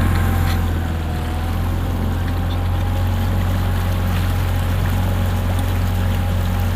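Small inflatable boat's outboard motor running steadily under way, a constant low drone with water rushing along the hull.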